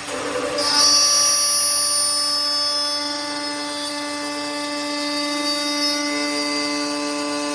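CNC wood lathe machining a spinning wooden workpiece: the cut starts abruptly with a short rasping burst, then settles into a steady whine with several held tones.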